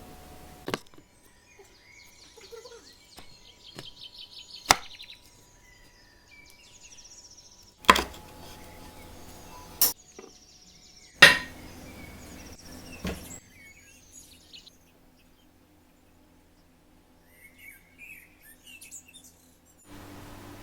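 Several sharp knocks or taps, a few seconds apart, with small birds chirping in quick repeated trills in the background.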